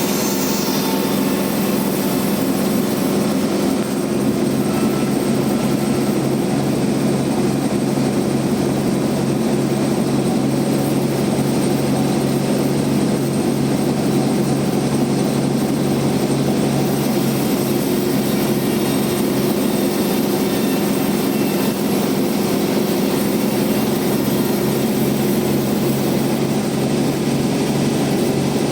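Bandsaw sawmill running with a steady, even drone of several fixed hums. A lower hum joins about three and a half seconds in.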